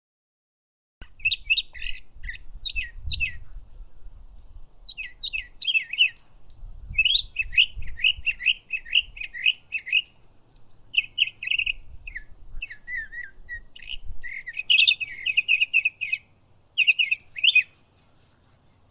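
Small birds chirping in quick runs of short, high chirps, with brief pauses between bursts; it starts about a second in and stops shortly before the end.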